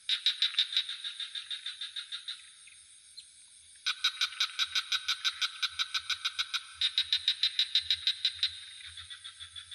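Frogs calling in rapid pulsed trills of about ten pulses a second, in bouts of two to three seconds with short breaks, over a steady high-pitched insect drone.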